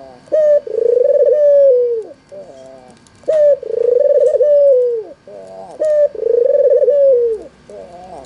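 White red-eyed (albino) ringneck dove cooing: three loud calls, each a short clipped note followed by a long rolling coo that falls away at its end.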